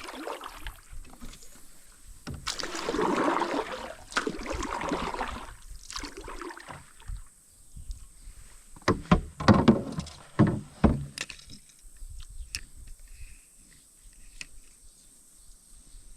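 Paddle-boat sounds on a creek: a few seconds of rushing, scraping noise, then a cluster of sharp knocks near the middle and scattered light clicks after.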